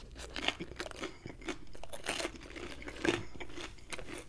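Close-miked chewing of a mouthful of buffalo chicken pizza with a crunchy crust: a run of crisp crunches and wet mouth sounds, a little louder about three seconds in.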